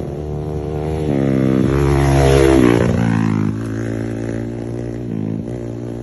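Motocross bike engines running, with one coming close and passing. It is loudest about halfway through and its pitch drops as it goes by.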